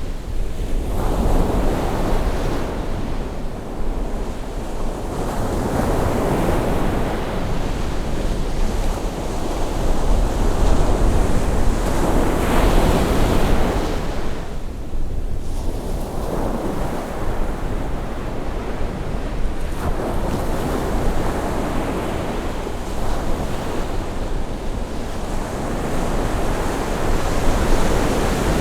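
Sea waves breaking and washing up a beach on a rising tide, a continuous surf that swells and fades every few seconds, with a low rumble of wind on the microphone underneath.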